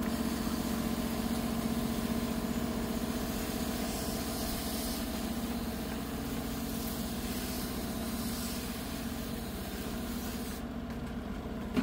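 Split air conditioner's outdoor unit running with a steady hum, its compressor motor shaking hard from overheating and low supply voltage. Water is sprayed onto the condenser coil, adding a hiss that cuts off suddenly shortly before the end.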